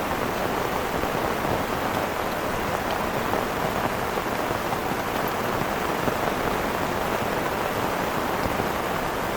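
Heavy rain pouring steadily, without a let-up.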